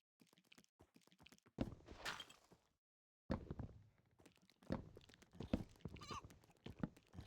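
A series of irregular knocks and thumps, a few louder than the rest, with near silence between them.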